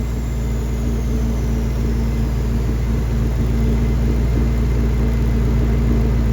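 2014 Mustang GT's twin-turbocharged 5.0 Coyote V8 idling steadily: a deep, even drone that grows slightly louder.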